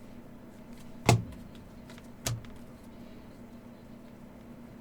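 Two sharp taps, a louder one about a second in and a weaker one just over a second later, from cards and packs being handled on a table, over a steady low hum.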